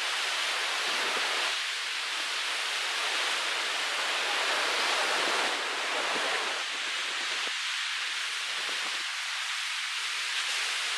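Steady rushing hiss of Pacific Ocean surf below the cliffs, mixed with wind.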